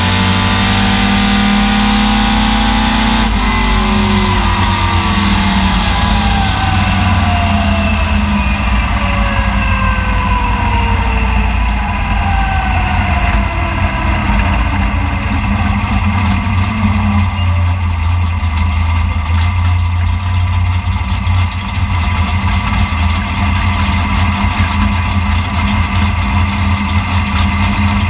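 Dodge Demon's 528 cubic inch naturally aspirated big-block wedge V8, heard inside the cabin, running at steady high revs until the throttle comes off suddenly about three seconds in. The revs then fall steadily for about fourteen seconds as the car slows down, and it settles into a low idle.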